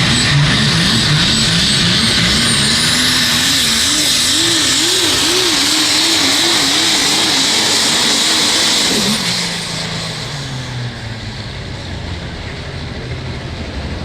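Diesel pulling truck at full throttle dragging the sled down the track. The engine note climbs while surging rapidly up and down, then drops away about nine seconds in as the engine is let off at the end of the pass.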